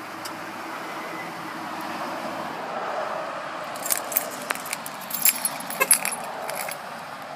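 A 2010 Dodge Charger SXT's V6 engine idling steadily after a remote start, with keys jingling and clicking from about four seconds in.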